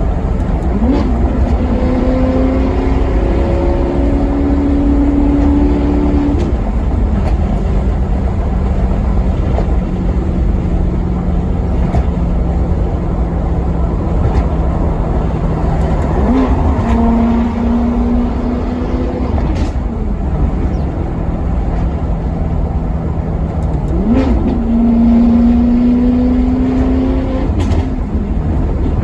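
Maserati Quattroporte Sport GT V8 engine accelerating, over a steady low rumble. Three times, about a second in, about halfway through and near the end, the engine note jumps up sharply and holds high for a few seconds, then drops back to a steadier, lower cruising note.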